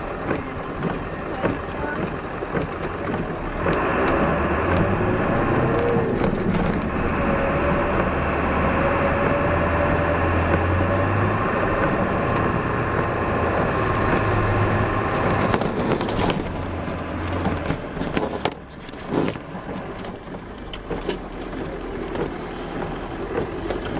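Snow-plow truck engine running as it pushes snow with a 9-foot Boss Power V plow, pulling harder and louder from about four seconds in, then easing back about sixteen seconds in. Scattered knocks and clatter near the end.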